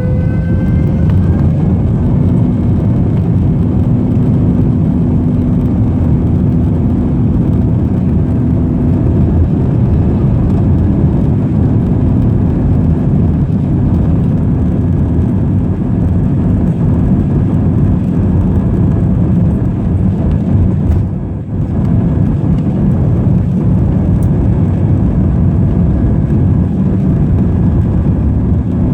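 Aircraft engines at takeoff power: a loud, steady, deep roar, with whining tones that rise in pitch in the first couple of seconds as the engines spool up. The level dips briefly about 21 seconds in.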